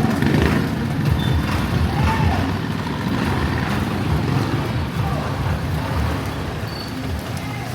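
Street traffic, with motor vehicle engines running close by as a steady low rumble.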